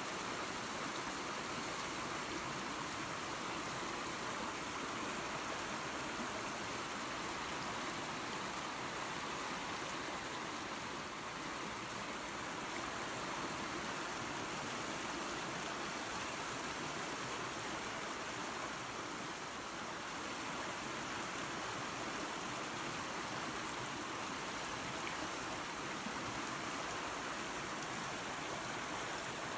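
Small waterfall and creek water running steadily, an even rushing wash of sound.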